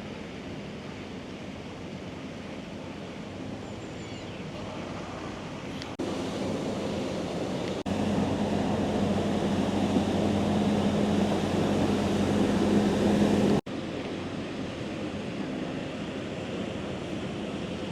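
Steady wash of street noise and wind on the microphone. For several seconds in the middle it grows louder with a steady low engine-like hum, then drops back suddenly.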